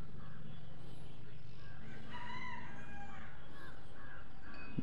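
A bird call, chicken-like, rising and falling about two seconds in and lasting about a second, over a steady low hum.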